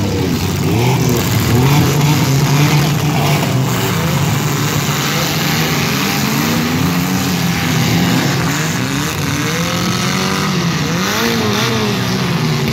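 Engines of several demolition derby cars revving at once, their pitches rising and falling over one another.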